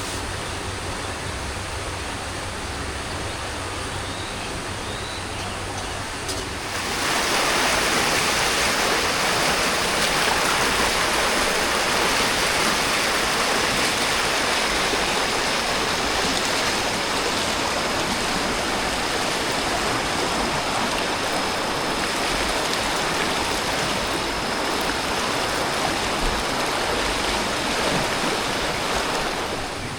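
Steady rush of flowing water, a continuous hiss with no rhythm, that jumps suddenly louder about seven seconds in and holds there until just before the end. A faint, thin, high steady tone runs over it once it is louder.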